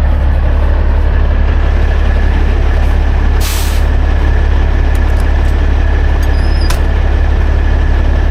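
Semi truck's diesel engine idling steadily with a deep hum. About three and a half seconds in comes a short hiss of released air from the truck's air brake system, and later a single click.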